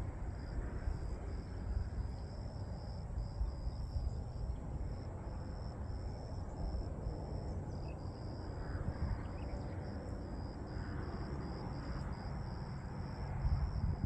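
An insect, cricket-like, chirping steadily in a run of short high pulses, over a low rumble of wind on the microphone.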